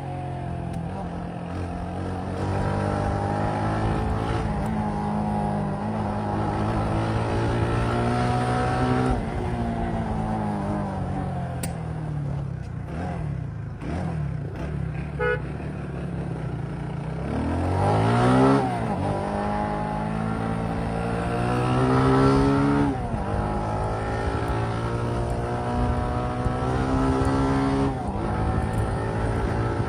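Motorcycle engine running and revving, its pitch climbing and falling again and again as it accelerates and eases off. There is a sharp climb in revs about eighteen seconds in.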